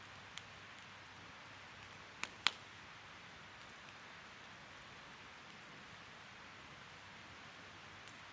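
Wood fire burning with a soft, steady hiss and sharp crackling pops. There is a small pop just under half a second in, then two pops in quick succession about two and a half seconds in, the second the loudest.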